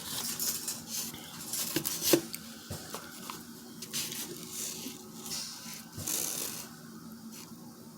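Close-up eating sounds: wet chewing and mouth smacking, with a few sharp clicks about two seconds in from handling food or a utensil.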